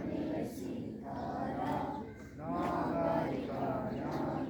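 A group of school students singing together in unison, phrase after phrase with held notes.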